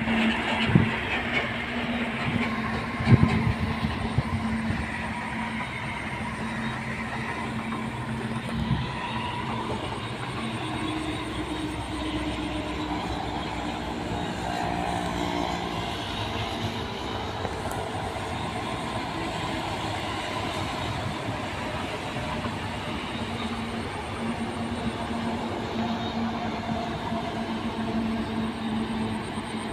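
Road traffic with big trucks driving past: steady engine and tyre noise with a low engine hum, and a few sharp thumps about one, three and nine seconds in.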